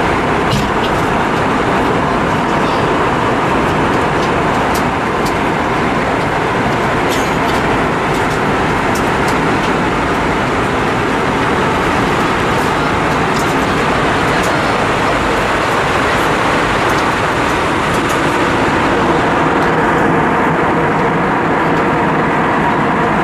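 Steady cabin noise inside an Airbus A320-232 in motion: a constant rush of engine and air noise with a faint hum, heard from a forward window seat.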